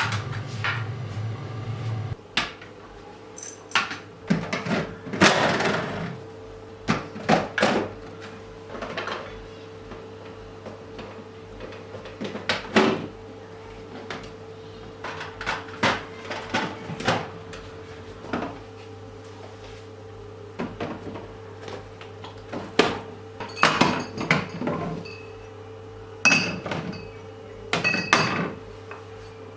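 Kitchen containers and jars being handled and set down: scattered knocks and clatter, with several ringing glassy clinks near the end. A steady low hum runs underneath and drops in level about two seconds in.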